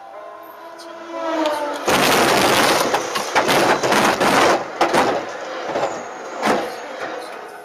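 A passenger train passing at speed a few feet in front of the car: a loud rush of wheel and wind noise with uneven clatter from the carriages, starting about two seconds in and fading after about three seconds.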